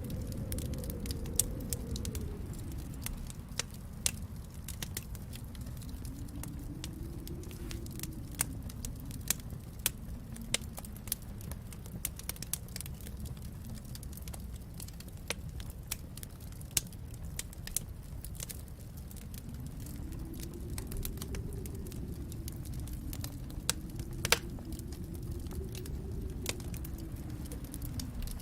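Wood fire crackling in a fireplace, with frequent sharp pops and snaps scattered irregularly. Under it runs a low rumble of storm wind that swells and eases every several seconds.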